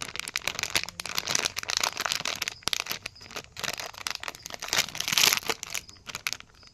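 Crinkly packaging of a Breyer Stablemates mystery horse bag being handled and torn open: dense crinkling and crackling with sharp snaps, loudest about five seconds in.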